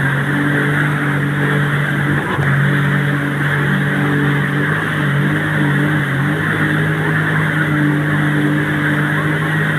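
Motorboat engine running steadily at speed, with a steady hum that shifts slightly in pitch a few times, over rushing water and wind noise.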